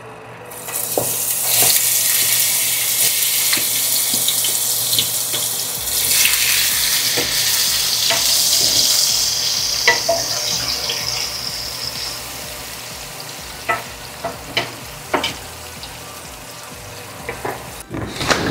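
Chilies frying in hot oil in a pan: a loud sizzle that starts about a second in and dies down over the second half. A spatula clicks against the pan a few times as they are stirred.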